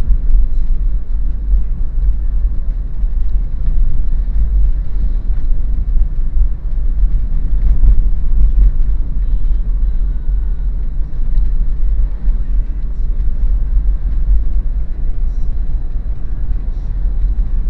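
Steady low rumble of a 2013 Daihatsu Terios automatic driving along: engine and tyre noise.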